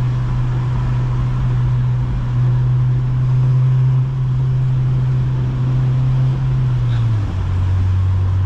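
8th-gen Honda Civic Si's 2.0-litre four-cylinder engine droning steadily at highway cruise, heard from inside the cabin over tyre and road noise. About seven seconds in, the engine note drops to a lower pitch as the car settles into sixth gear.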